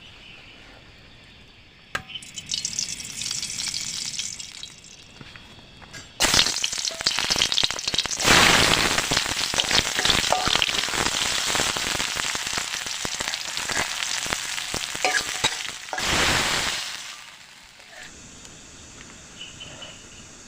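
Wood cooking fire of wet firewood hissing and crackling loudly, starting suddenly about six seconds in and dying down near the end, after a softer hiss earlier on.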